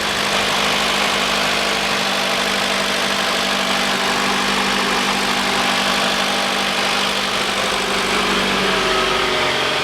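Freshly rebuilt Mitsubishi ASX 1.8-litre 4B10 inline-four engine idling steadily on its first start after a major overhaul.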